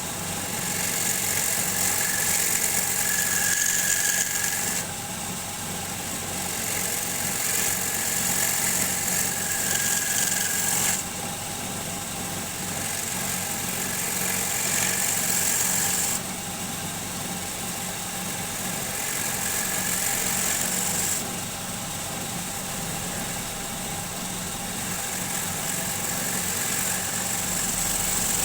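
Wood lathe running with a steady motor hum, while a turning tool cuts the spinning wood in several passes of a few seconds each; each cut adds a loud, high hiss.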